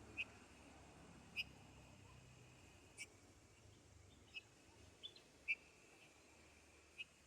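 A small bird chirping: about seven short, sharp single chirps, spaced irregularly a second or so apart.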